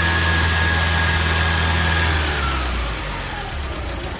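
Porsche 924's four-cylinder engine running, with a steady high whine over the engine note; both fall in pitch about halfway through as the revs drop.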